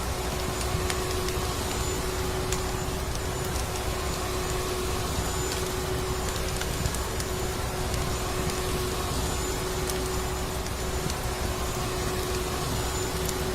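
Vacuum cleaner motor running steadily with a constant hum, mixed with the scattered crackle of a wood fire.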